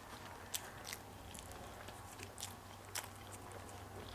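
A person chewing a mouthful of food close to the microphone, faint, with a few sharp mouth clicks.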